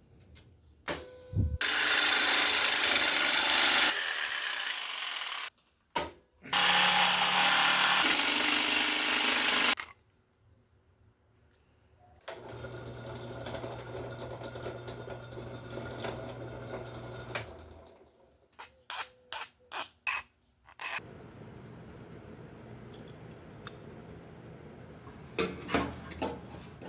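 Power tool run in several bursts of a few seconds each, with pauses between, working on the light's metal mounting hardware. Later there is a steadier stretch with a low hum, then a quick series of clicks and knocks.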